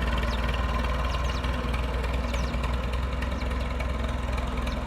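Tractor engine running steadily at an even speed, with no revving.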